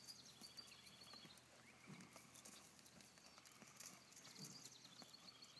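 Near silence, with a horse's hooves stepping softly a few times.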